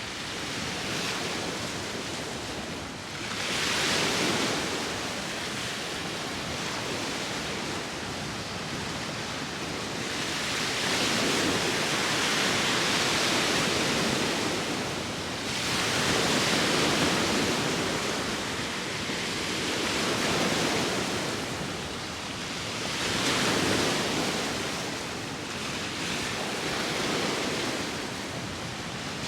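Sea waves breaking and washing on the shore in a steady rush, swelling and ebbing every several seconds, with wind.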